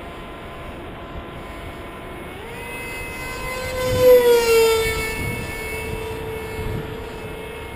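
Electric pusher motor and propeller of a Ritewing Zephyr II flying wing buzzing, stepping up in pitch with throttle about two and a half seconds in. It swells to its loudest about four seconds in and drops slightly in pitch as the plane makes a low pass close by, then carries on steadily.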